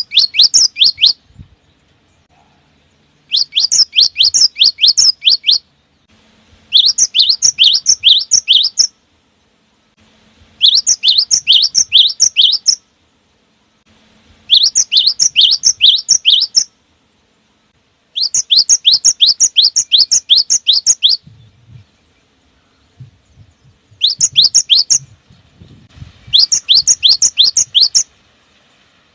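Cinereous tit (gelatik batu) singing in repeated bouts: each bout is about two seconds of quick, high notes that sweep downward, four or five a second. There are eight bouts, with short pauses between them.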